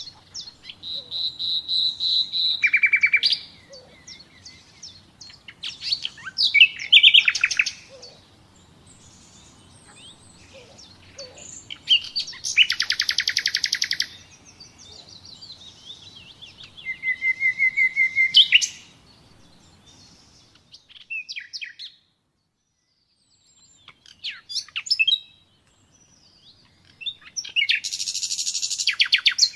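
Nightingale singing in separate phrases a few seconds apart: fast runs of repeated notes and rattling trills, along with long level whistled notes, some high and some lower, with pauses between phrases.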